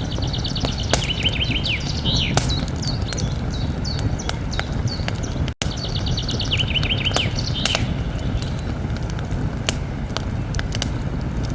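Campfire crackling, with scattered sharp pops over a steady low rumble, while a small songbird sings twice: a quick phrase of rapid repeated high notes near the start and again a little past halfway. The sound cuts out for an instant about halfway through.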